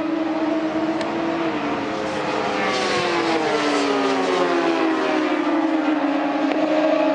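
1000cc superbike engines running hard at high revs. From about the middle, the engine pitch falls steadily for a few seconds, then holds level again.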